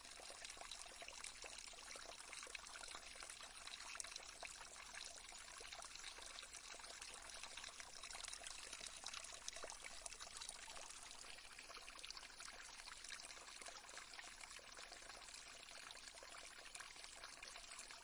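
Faint, steady trickle of running water, like a small stream, with a fine crackle through it.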